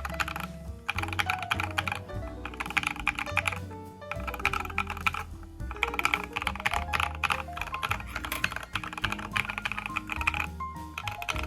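Fast typing on an Idabao ID80 v2 mechanical keyboard with lubed KTT Strawberry linear switches and PBT keycaps: dense runs of key clacks broken by short pauses. Background music plays under it.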